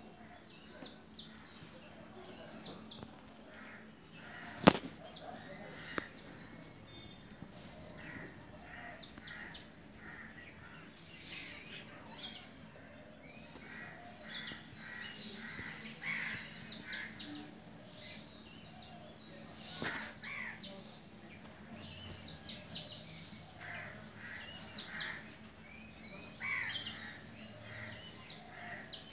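Birds chirping repeatedly in short calls, with one sharp, loud click about five seconds in and a fainter one later.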